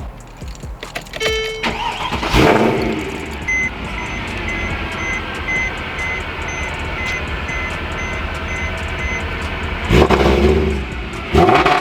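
A 2011 Mercedes C63 AMG's naturally aspirated 6.2-litre V8 starting on its freshly flashed ECU tune. It catches with a flare, then idles while a warning chime beeps about twice a second, and is blipped twice near the end.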